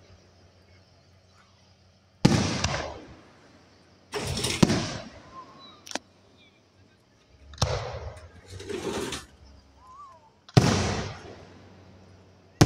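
Aerial fireworks shells bursting overhead: about five sharp bangs a couple of seconds apart, each trailing off over about a second.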